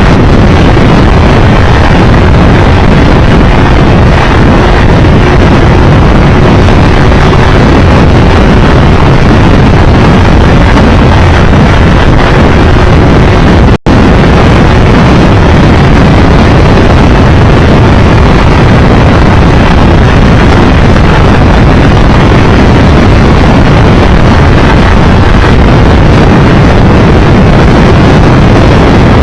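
Heavy wind roar buffeting the microphone over a Triumph Tiger Explorer 1200's three-cylinder engine, riding steadily at speed. The sound cuts out for an instant about halfway through.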